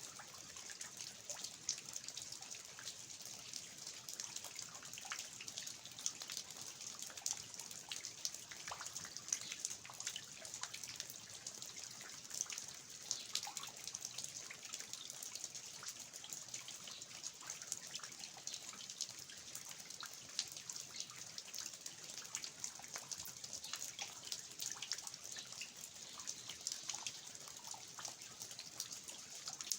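Steady rain falling on a garden, with water dripping from the roof eaves of an old house: an even hiss dotted with many small, sharp drops.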